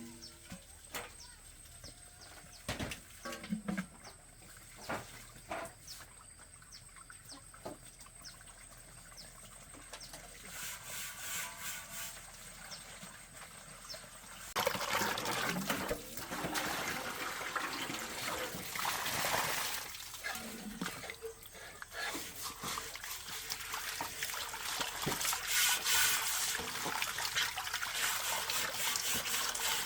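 Scattered small knocks and clicks, then, about halfway through, running water starts up: a steady trickling and splashing that carries on.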